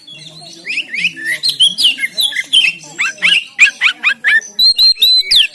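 Oriental magpie-robin (kacer) singing a fast, varied song of chirps and whistled downward-sweeping notes. Near the end comes a run of repeated high notes, closed by one steep sweep.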